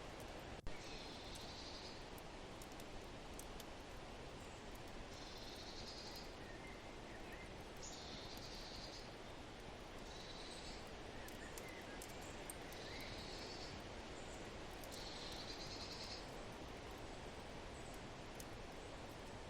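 A songbird repeating the same short, high trilled phrase about every two to three seconds, over a steady rushing noise of wind. Faint scattered crackles and one sharp pop about half a second in, typical of a wood fire.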